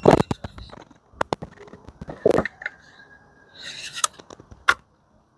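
Metal tools and engine parts being handled, a series of sharp clinks and knocks at uneven intervals.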